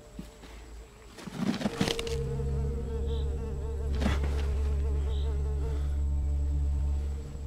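A low, steady buzzing drone sets in about two seconds in, after a few rustling noises, with another brief rustle a couple of seconds later.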